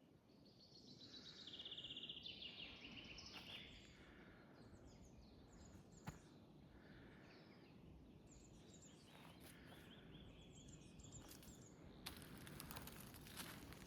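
Faint songbirds singing, with one rapid trill of repeated notes about two seconds in and scattered chirps after it. Near the end, a rustling starts up.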